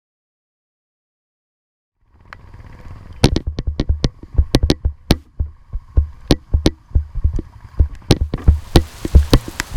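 Raindrops striking the microphone, starting about two seconds in: irregular sharp taps with low thumps, growing denser.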